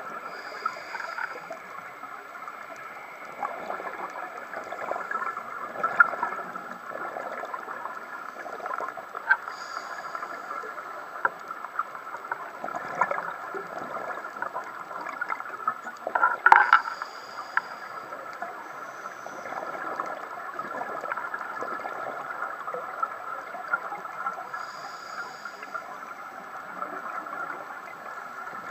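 Scuba diving sound heard underwater: a steady muffled gurgle with scattered crackling clicks. Every seven or eight seconds comes a short bubbling burst, the diver's exhaled breath leaving the regulator.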